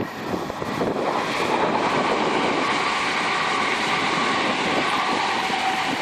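A train passing through the station, its wheel and rail noise building over the first second and then running steadily and loud.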